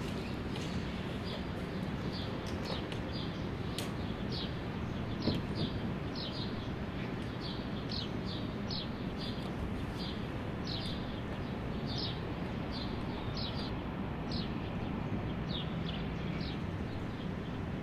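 Small birds chirping, short high chirps that drop in pitch, about one or two a second, over a steady low background rumble.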